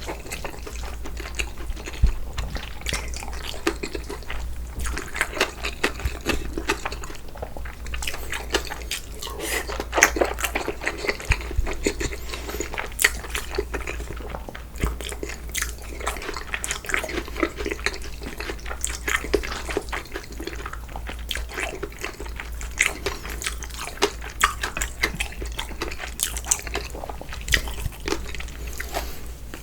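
Close-miked eating sounds of spicy cold noodles in broth: wet chewing and mouth smacks, a dense, irregular run of short clicks.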